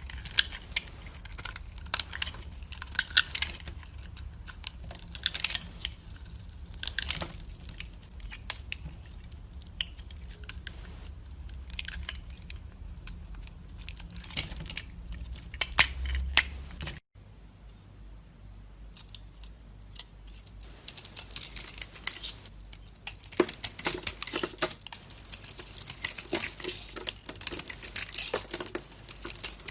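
Dry soap being cut and carved with a knife: sharp crisp cracks and crunches. It breaks off suddenly just over halfway, then returns as denser, more crackly crunching.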